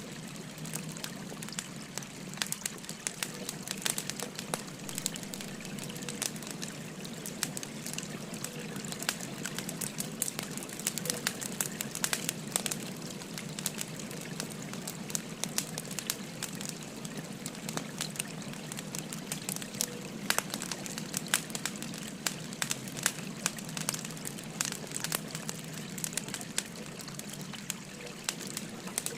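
Burning firewood crackling with frequent small sharp pops over the steady rush of a flowing stream.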